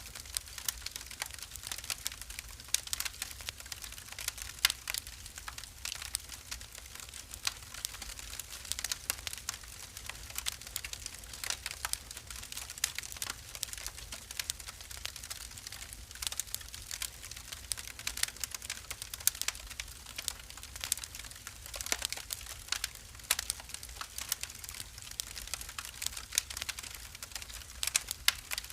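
Wood fire crackling in a fireplace: many irregular sharp pops and snaps over a low steady rumble of the burning.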